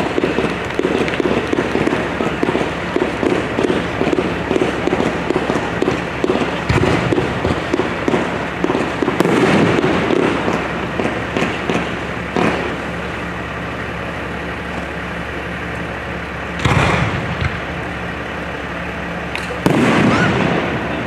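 Fireworks display: a dense run of rapid crackling pops and bangs for about the first half, then thinning out, with two louder single bursts near the end.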